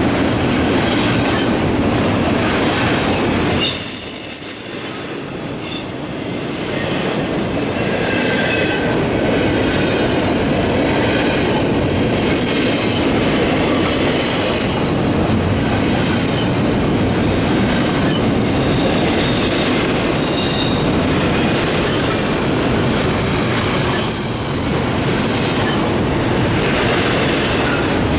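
Double-stack intermodal freight cars rolling past, a steady loud rumble of wheels on rail with clickety-clack. Short high-pitched wheel squeals come and go, the sharpest about four seconds in, when the rumble briefly drops.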